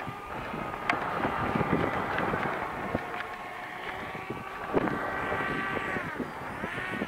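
Electric motor and propeller of a Spiderwing RC flying wing, a steady whine that drops in pitch near the end as it passes low, then rises again. Wind buffets the microphone.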